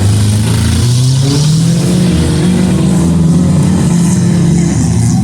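Autocross cars' engines running hard on a short track. One engine revs up about a second in, holds its pitch, then eases off near the end.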